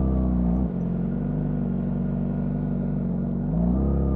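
2025 Honda CBR600RR inline-four engine with its stock exhaust, held at raised revs, then dropping back to a steady idle about a second in. Near the end the revs climb again.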